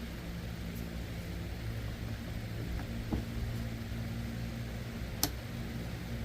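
Steady low mechanical hum, with a few light clicks and one sharp click about five seconds in.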